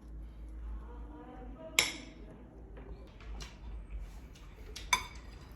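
Dishes and cutlery clinking as a meal is eaten at a table, with two sharp clinks of hard tableware, about two seconds in and again near the end.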